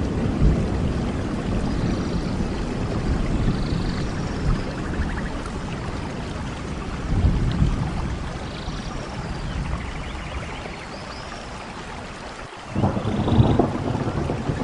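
Steady rain with a heavy low rumble underneath. The sound drops out for a moment about 12 seconds in, then comes back louder.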